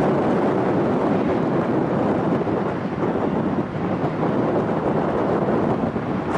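Jet aircraft engines, a steady roar without change in pitch.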